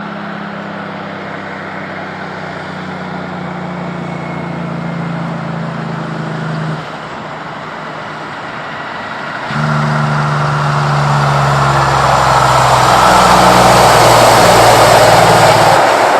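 Kenworth truck's diesel engine running on the road with a steady low hum, then a louder truck whose engine and tyre noise swell as it draws near, loudest just before the end.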